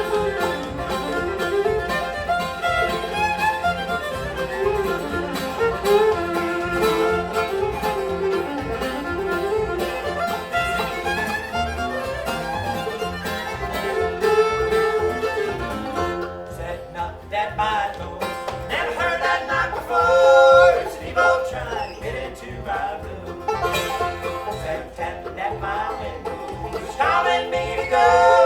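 Bluegrass band playing an instrumental passage on acoustic string instruments, with no singing; the lead melody changes about halfway through.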